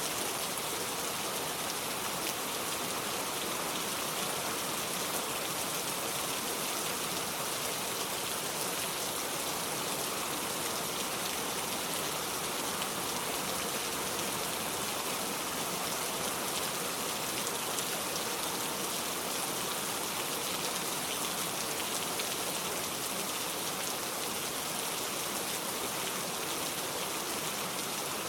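Steady rain falling, with fine pattering drops on a surface, even and unbroken throughout.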